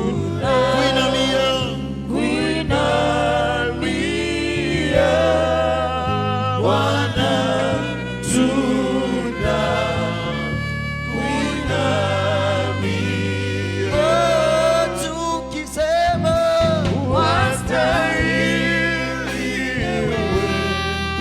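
Gospel worship singing: a choir or worship team singing a slow song over sustained keyboard chords and bass.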